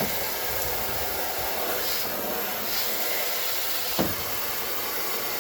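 Garden hose spraying water into a kayak's hull to flush gravel out, a steady rushing hiss, with a single sharp knock about four seconds in.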